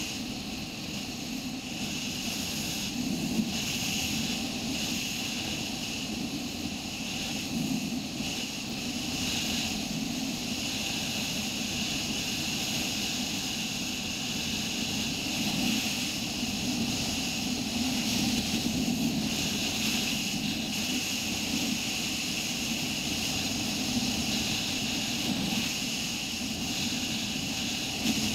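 Motorcycle engine running steadily while riding at cruising speed, over a steady hiss.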